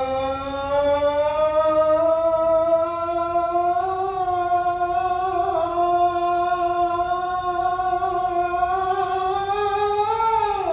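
A person's singing voice holding one long vowel in a vocal exercise: the pitch climbs slowly, catches briefly about halfway, climbs a little more, then slides steeply down near the end.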